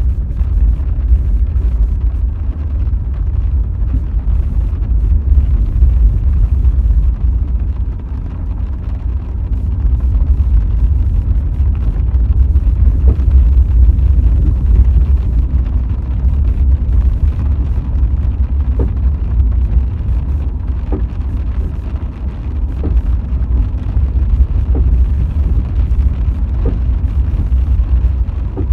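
Car driving, a steady low road and engine rumble heard from inside the cabin, swelling and easing slowly.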